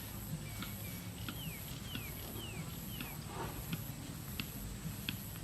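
Small birds calling: short high chips repeated every half second or so, with a run of four quick downward-slurred whistles in the first half.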